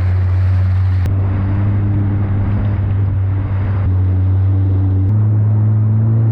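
Yamaha WaveRunner jet ski engine running steadily at cruising speed under a hiss of water and wind. The engine note steps up slightly about five seconds in.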